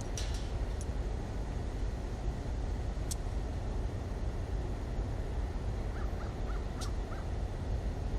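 Steady low rumble with a few sharp clicks, and a bird calling five short times in quick succession about six seconds in.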